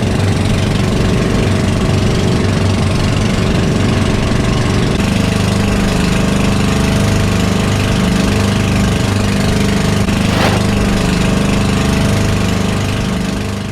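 Engine of a motorised outrigger bangka boat running steadily under way, loud and close. Its note shifts about five seconds in, and there is one brief sharp sound at about ten and a half seconds.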